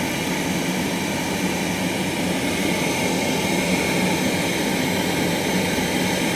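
Worcester Danesmoor kerosene boiler's pressure-jet oil burner running steadily after ignition: the burner fan motor and the lit oil flame give a continuous roar. The motor is running again on a freshly fitted 4 microfarad capacitor, the old one having metered low at 3 microfarads.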